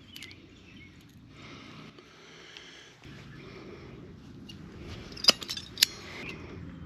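Hand wire crimpers being worked on a butt connector joining two power wires: handling rustle, then two sharp clicks about half a second apart.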